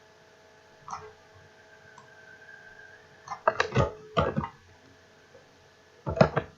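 Computer mouse clicks: a single click about a second in, then a quick run of clicks around three and a half to four and a half seconds, and another pair just after six seconds. Under them is a faint steady hum.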